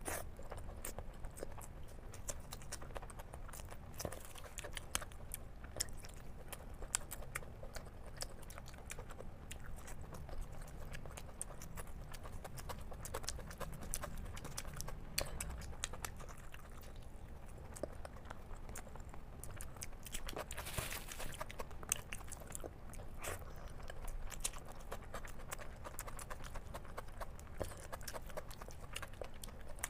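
Close-up chewing and wet mouth clicks of a person eating spicy masala egg curry with rice, with a short louder noisy sound about two-thirds of the way through.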